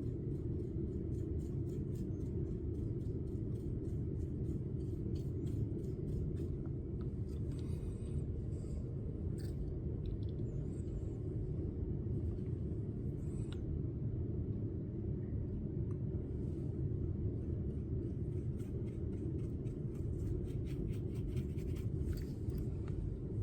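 Faint light scratching and tapping of a brush dabbing pigment powder onto a silicone mold, over a steady low room rumble.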